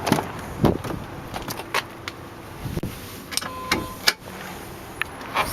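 Scattered metal clicks, knocks and jangling from handling gear around a car, with a short electronic beep a little past halfway.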